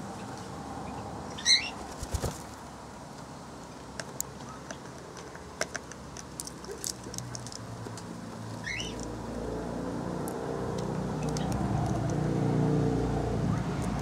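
Aviary birds: a short, high chirping call about a second and a half in and another about two-thirds of the way through, with scattered light clicks and flutters between them. A low rumble builds underneath from about two-thirds of the way in.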